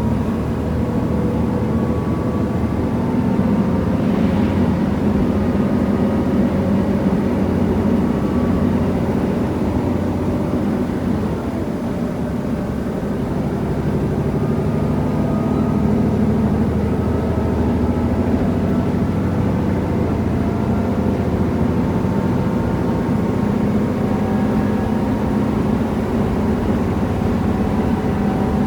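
KiHa 75 diesel railcar under way: the diesel engine drones steadily along with the running noise of the train, and several tones slowly climb in pitch.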